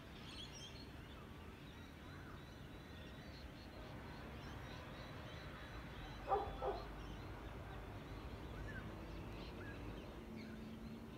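Faint bird chirps over a low, steady background rumble, broken about six seconds in by two short, loud animal calls a split second apart.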